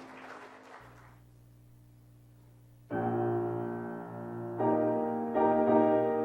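Keyboard music: after a brief fading wash of noise and a short lull, sustained chords come in about three seconds in, with two more chords struck in the last seconds.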